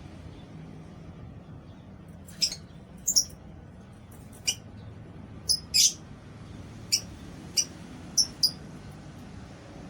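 Lovebirds giving short, sharp, high-pitched chirps, about ten of them at irregular intervals starting a couple of seconds in, over a steady low hum.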